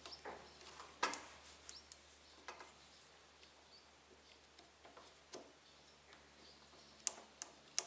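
Scattered light clicks and taps of small parts being handled, with sharper clicks about a second in and twice near the end.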